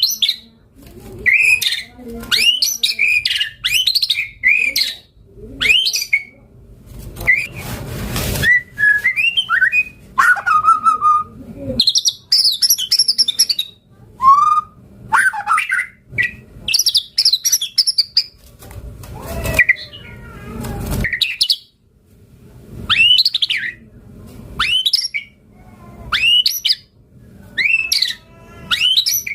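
White-rumped shama (murai batu) singing in full voice: a rapid, varied run of short sweeping whistled phrases, with a few harsh rasping notes mixed in.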